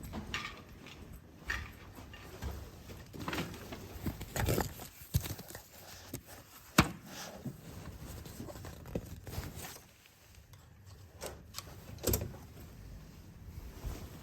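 Scattered clicks, knocks and scrapes of luggage being handled and a hotel room door, with one sharp click about seven seconds in.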